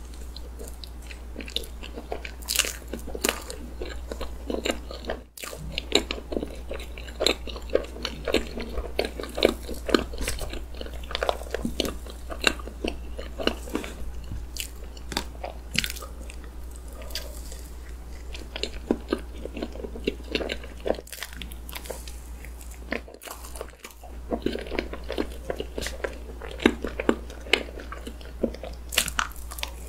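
Close-miked chewing and mouth sounds of someone eating chocolate sponge cake with whipped cream: irregular wet smacks and many short sharp clicks.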